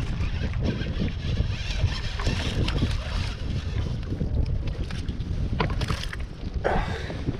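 Wind buffeting the microphone on a kayak out on open water, a steady low rumble, with scattered light knocks and a brief louder rustle near the end.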